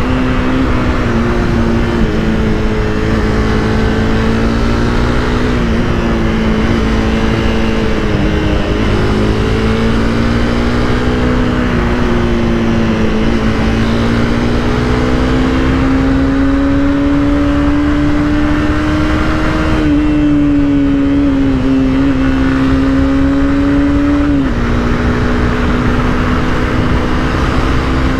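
Honda CBR300R's single-cylinder engine running under way at steady, moderate revs, its note drifting slowly up and down and dropping suddenly about 24 seconds in, over a continuous rush of riding noise.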